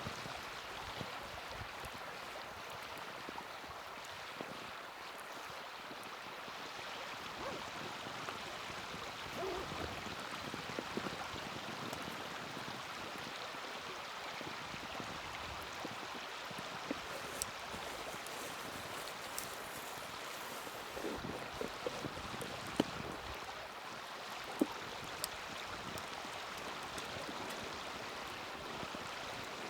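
Small wood fire burning in a mini fire pit: a steady hiss with scattered sharp crackles and pops. A few louder pops come in the second half.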